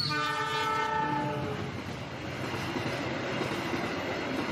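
Train horn blowing a chord for about a second and a half, followed by the steady running noise of a train on rails.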